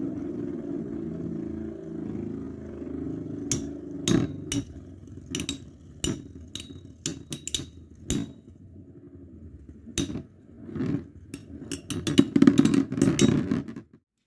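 Two Metal Fight Beyblade spinning tops with metal wheels, Counter Escolpio 145D and Cyber Aquario 105RF, whirring steadily as they spin in a stadium. From about three and a half seconds in they clash repeatedly with sharp clicks, and the hits come thickest and loudest near the end.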